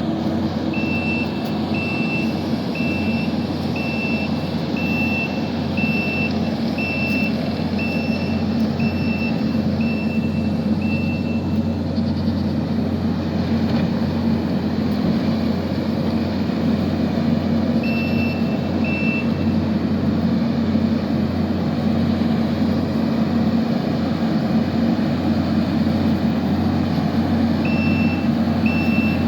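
Kubota SVL65 compact track loader's diesel engine running steadily, with its backup alarm beeping about once a second while it reverses: a long run of beeps for about the first ten seconds, two short beeps around the middle, and more near the end.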